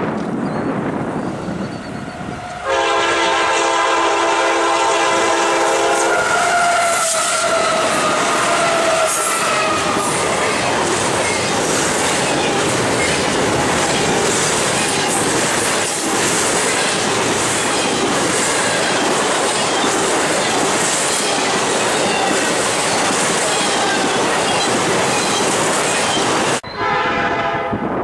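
Freight locomotive air horn sounding for a grade crossing, a chord that slides down in pitch as the locomotive passes. It is followed by the steady rumble and clatter of a long CSX double-stack container train rolling by. Near the end a cut brings in another locomotive's horn.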